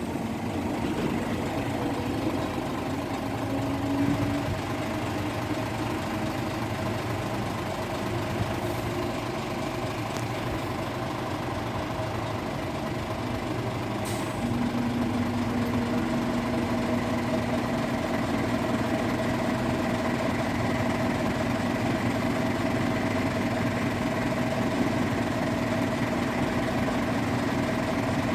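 Steady hum of idling engines at a railway level crossing. About halfway through, a steady low drone with a higher tone above it sets in and holds.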